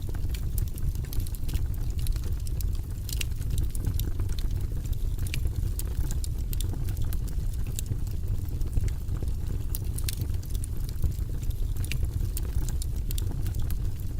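Campfire burning: a steady low rumble of flames with frequent sharp crackles and pops of burning wood scattered throughout.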